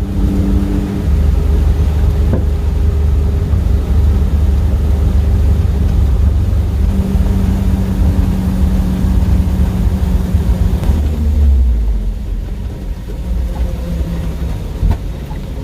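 1970 Chevrolet dump truck running down the road, a steady low engine rumble with road noise, heard from inside the cab. The sound eases off about three-quarters of the way through, just before the engine dies from what looks like a lack of fuel.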